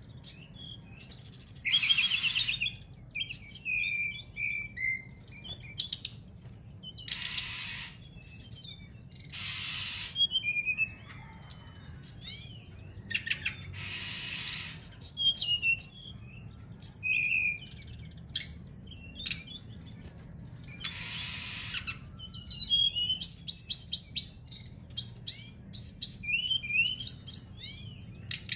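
Brown-chested jungle flycatcher (SRDC) singing a varied, practising song of chirps, slurred whistles and rapid trills, broken up by several short harsh, raspy bursts.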